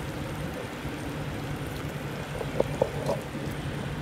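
Diced bacon and potatoes sizzling in a cast-iron skillet on a portable butane stove, a steady hiss with a low hum under it. A few light clicks come a little past halfway.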